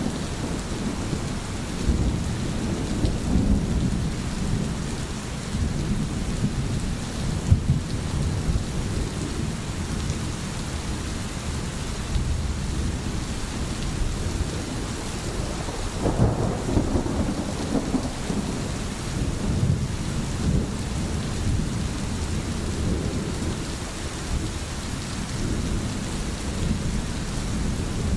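Steady rain falling, an even hiss over a continuous low rumble that swells briefly about sixteen seconds in.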